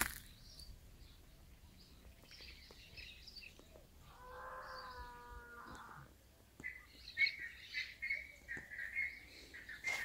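Faint birdsong: small birds chirping here and there, with a quicker run of chirps in the second half. About halfway through, a steady pitched tone holds for about two seconds.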